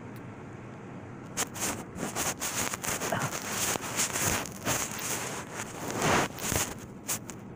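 Handling noise close to the microphone: rustling with many quick clicks. It starts about a second and a half in and stops shortly before the end.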